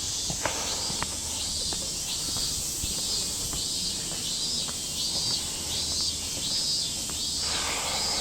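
A chorus of summer cicadas: a steady high sizzle with a pulsing call repeating about one and a half times a second, over light footsteps, and a brief rushing noise near the end.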